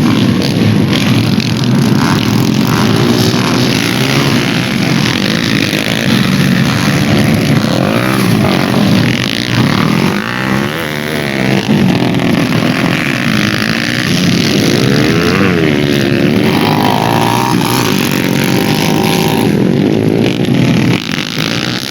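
Several dirt bike engines revving hard, their pitches rising and falling and overlapping as they accelerate and shift.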